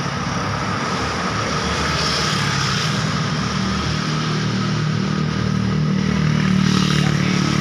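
Road traffic going by, mostly motorcycles and cars: a steady mix of engine and tyre noise, with one engine growing louder from about five seconds in as it passes close.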